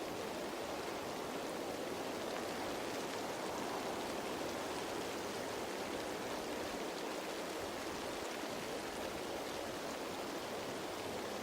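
Steady rain pattering on leaves, an even hiss of many small drops with no letup.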